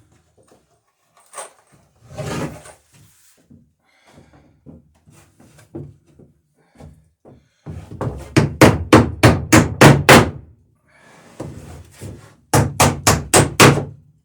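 Hammer blows riveting nails through a wooden dory's sheer-strake planking, in two quick runs of sharp strikes at about four a second: about ten, then about six. Lighter knocks of tools being handled come before them.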